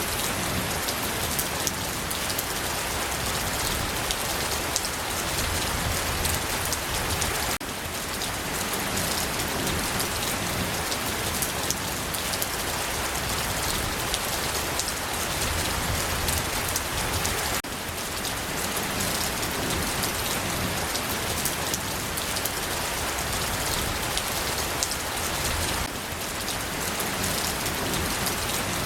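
Steady rain falling, a dense even patter of drops, with a slight drop in level about 8, 18 and 26 seconds in.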